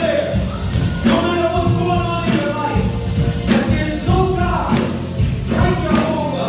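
Live gospel music: voices singing over a band, with a tambourine keeping the beat.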